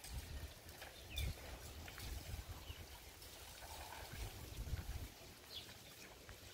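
Faint scattered bird chirps, short and high, over an uneven low rumble.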